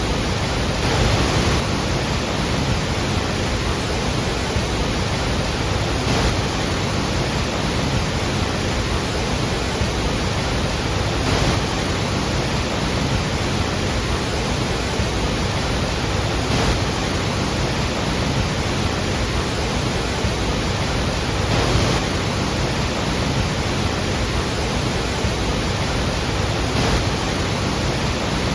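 Steady roar of a large waterfall, a dense rushing of falling water with faint swells about every five seconds.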